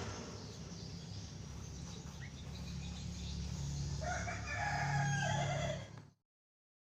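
One long bird call about four seconds in, lasting nearly two seconds, over a low steady hum. The sound cuts off suddenly near the end.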